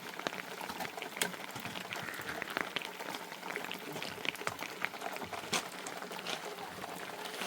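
Heavy rain falling, a steady hiss with many separate sharp drop hits on nearby surfaces.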